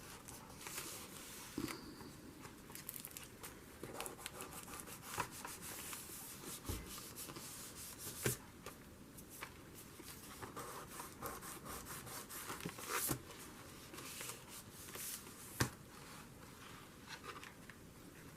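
Paper and card being handled, rubbed and pressed down by hand while gluing into a journal: quiet rustling with scattered light taps and clicks.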